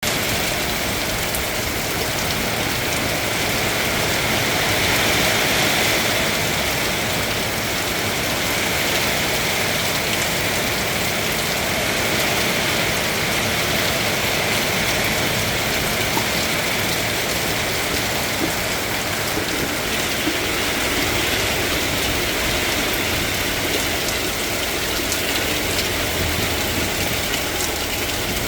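Steady rain falling, a constant unbroken hiss.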